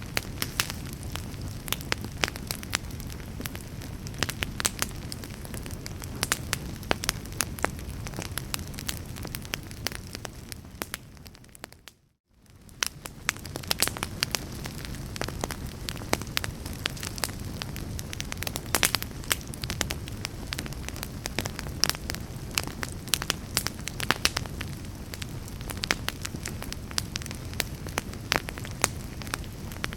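Fireplace fire crackling, with frequent sharp pops over a steady low rumble of the flames. About twelve seconds in the sound fades out to near silence for a moment and then fades back in.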